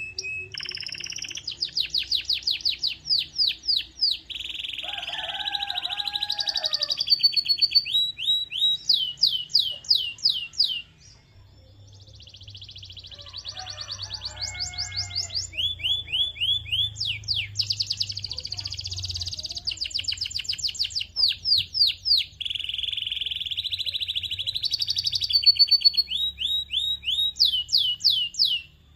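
Canary singing a long song of fast trills and rapid series of repeated downward-sweeping high notes, broken by a short pause about eleven seconds in.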